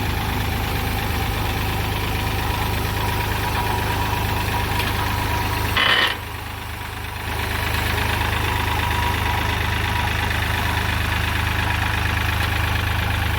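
Kioti CK3510 compact tractor's three-cylinder diesel engine running steadily as the tractor is driven down off a trailer. About six seconds in there is a short, loud, higher-pitched sound, and the engine sound drops away for about a second before it returns.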